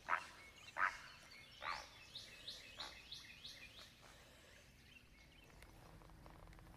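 Great blue heron giving three harsh squawks as it flushes, followed by a run of about six quick, higher repeated notes from a smaller bird.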